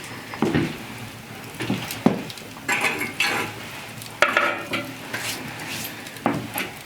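A utensil stirring and scraping in a pot, with irregular knocks and scrapes against the cookware over a steady sizzling hiss.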